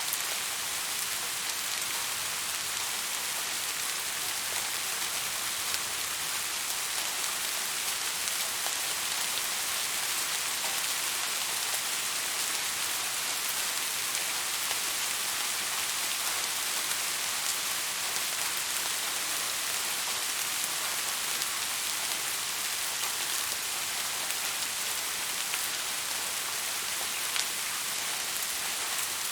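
Steady rainfall, an even hiss of drops with scattered individual drop ticks.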